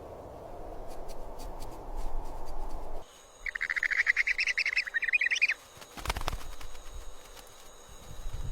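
Rufous hornero giving a fast, chattering call for about two seconds, after a steady low rushing background. A low thump follows about six seconds in.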